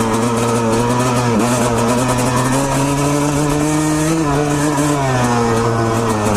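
Two-stroke dirt bike engine, a Honda CR250 by the rider's guess, running under way. Its pitch dips for a moment, climbs slowly as the throttle is held on, then falls back and steadies as he eases off.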